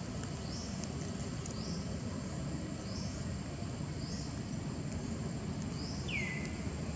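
Outdoor ambience: a bird repeats a short chirp about once a second over a steady high insect drone and a low, even background rumble. Near the end a lower call sweeps downward once.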